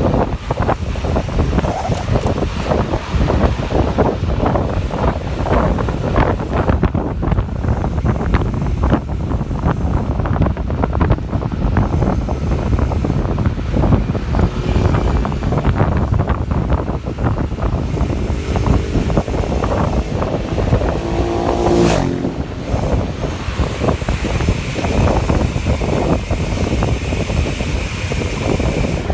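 Wind buffeting the microphone of a camera carried on a moving bicycle, a loud, steady, gusting rumble. A short rising tone cuts in briefly about two-thirds of the way through.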